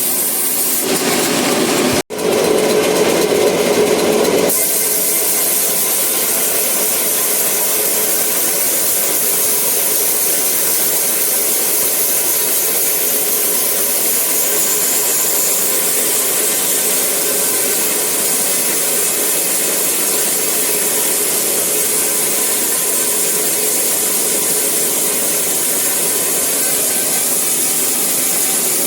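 Sawmill saw cutting eucalyptus wood. A louder stretch in the first few seconds is broken by a split-second dropout about two seconds in, then the saw runs on with a steady, even sound.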